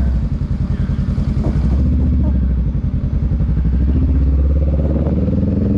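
Honda Rebel 500's parallel-twin engine running at low speed, its pitch rising a little near the end.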